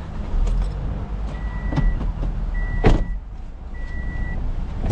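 A vehicle engine running steadily, swelling about half a second in, while a warning beeper sounds short beeps about once every 1.2 seconds as a car is loaded onto a rollback tow truck. A couple of sharp knocks, the loudest about three seconds in.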